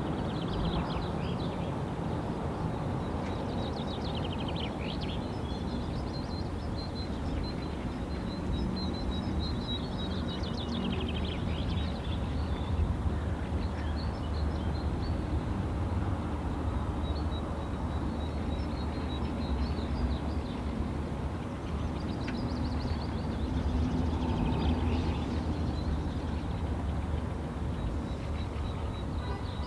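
Wild birds chirping and trilling, with several rapid series of short high notes, over a steady low rumble.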